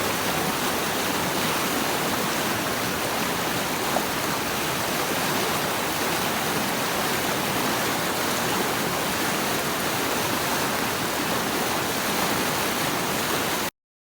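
Steady rush of flowing water, an even hiss with no breaks, cutting off suddenly near the end.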